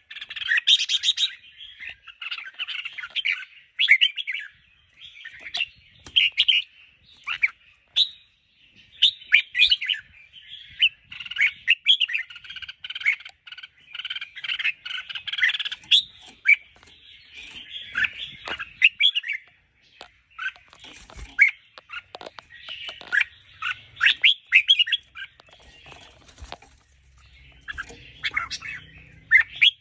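Red-whiskered bulbul singing and calling: rapid, chattering bursts of chirpy notes, broken by short pauses.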